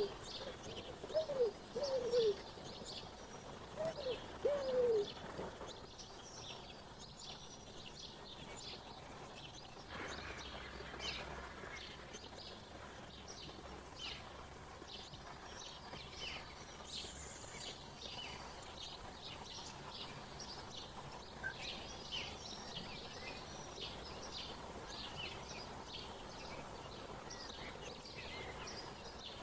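Small birds chirping throughout, many short high calls overlapping. Several low cooing calls come in the first five seconds.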